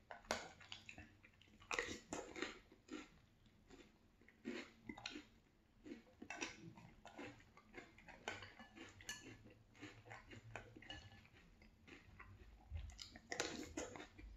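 Chewing of French Toast Crunch cereal in milk, the squares still crunching, in irregular clusters of short crisp crunches. A few sharp clicks of a spoon on a glass bowl.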